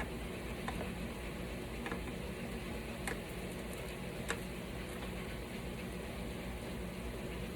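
Steady kitchen hum and hiss, with about five light clicks spread through the first half, typical of utensils tapping on cookware.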